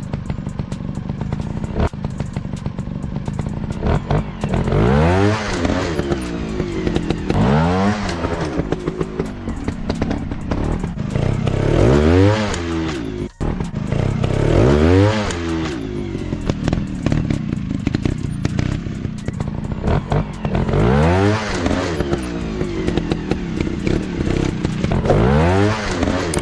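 Trail motorcycle engines revving in repeated swells, the pitch climbing and falling back about six times, over a steady run of clattering knocks from the bikes working over rough ground.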